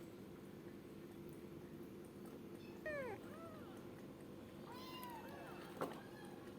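Kitten meowing: short high calls in two bunches, a loud falling meow about three seconds in and several quick arching mews around five seconds, with a sharp click just after. A steady low hum runs underneath.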